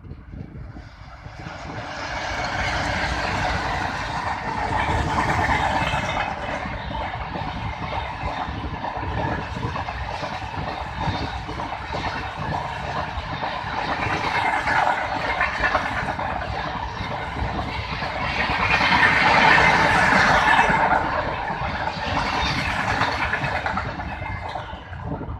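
Indian Railways passenger train running on the rails: a steady rumble of wheels on track that builds about a second in, swells and eases several times, and is loudest about three-quarters of the way through.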